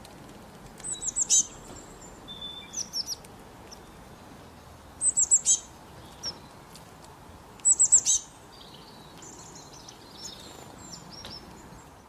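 Songbirds calling: three quick runs of four or five high, downward-sweeping chirps, about four seconds apart, with softer twittering between them over a steady faint hiss.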